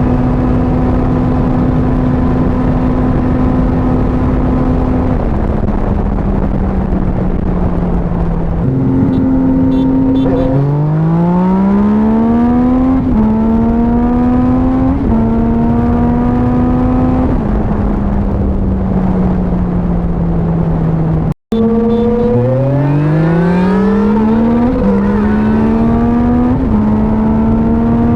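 Sport motorcycle engine with an aftermarket exhaust, heard from on the bike with wind rushing on the microphone: it holds a steady cruise, eases off, then accelerates hard with the revs climbing and dropping at each upshift through several gears. The sound cuts out for a split second about two-thirds through, then another hard run up through the gears follows.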